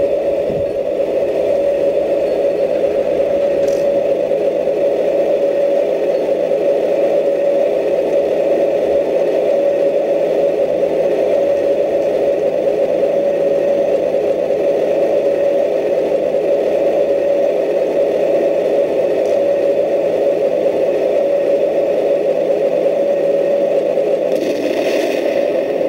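Radio-controlled model Leopard tank running: a steady, even whir of its drive motor and transmission. A brief higher hiss near the end.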